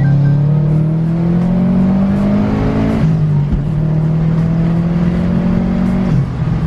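A lowered truck's engine running under light throttle. Its note climbs slowly for about three seconds, drops back, then holds steady with a brief dip near the end.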